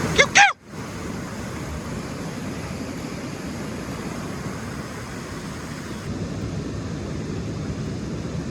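A short high-pitched voice cry in the first half-second, cut off abruptly, then a steady, even outdoor hiss with no distinct events.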